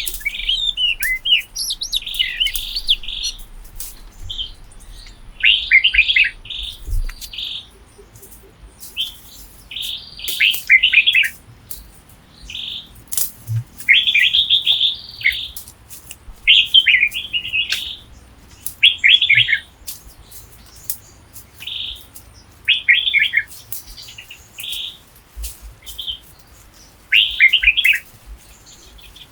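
Forest birds chirping in short, high phrases that repeat every couple of seconds.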